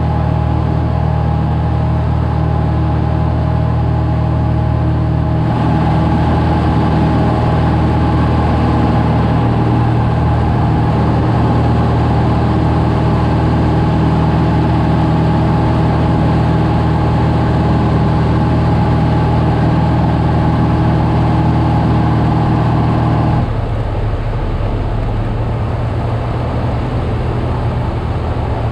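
Cessna 172's piston engine and propeller droning steadily in flight, a stack of steady tones. About 23 seconds in the sound changes abruptly to a rougher, noisier rumble without the clear tones.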